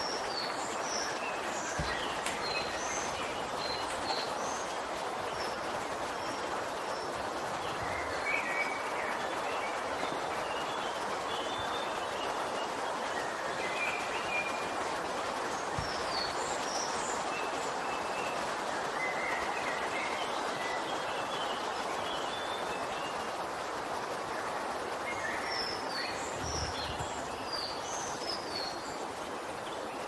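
Woodland birds chirping and singing in short phrases every few seconds, over a steady hiss of background noise.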